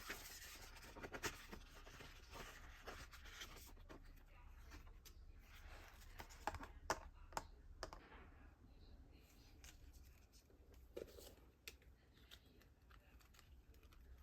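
Faint rustling and scattered clicks of merchandise packaging being handled and opened, with a few sharper clicks around the middle.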